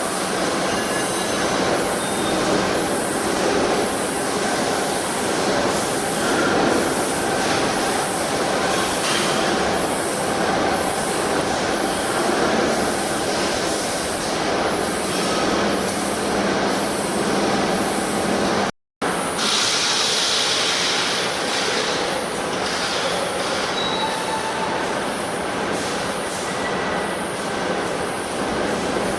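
Tire-shredding line for tire-derived fuel running under load: a loud, steady, dense mechanical noise with faint metallic tones in it. It breaks off for an instant about two-thirds of the way through, then carries on.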